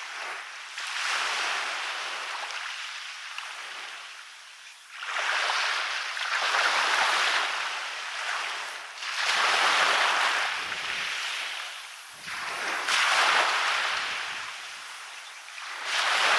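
Waves breaking on a beach, each surge of surf swelling to a hiss and fading, about every three to four seconds.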